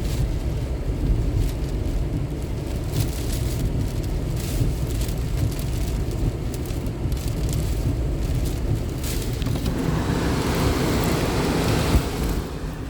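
Hurricane-force wind, well above 130, blowing and buffeting the microphone with a heavy low rumble, mixed with driving rain. A stronger gust builds about ten seconds in.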